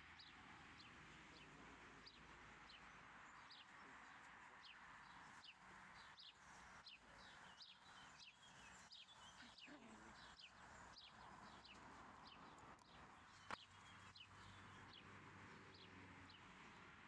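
Faint birdsong: short, high chirps that slide downward, repeated every half second or so, over a low steady hiss. There is one sharp click about two-thirds of the way through.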